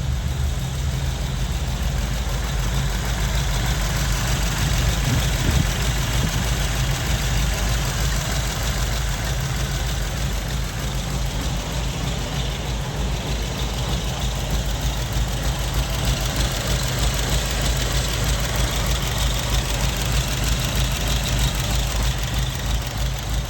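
Ford flathead V8, a 1949–53 engine fitted in a 1935 Ford coupe, idling steadily just after starting easily.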